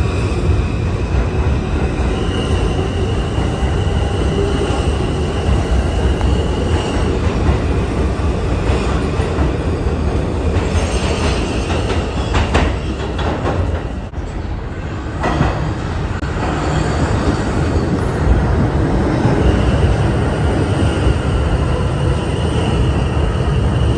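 New York City subway train running between stations, heard from inside the car: a steady loud rumble of wheels on rail. A high steady tone runs through the first few seconds, fades out, and returns near the end, with a brief quieter dip past the middle.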